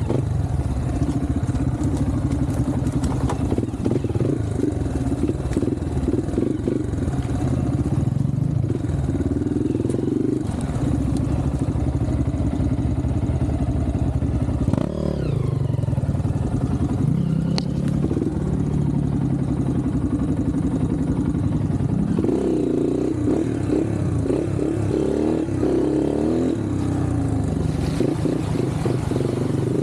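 Off-road trail motorcycle engine running under load, its pitch rising and falling again and again as the throttle is opened and closed.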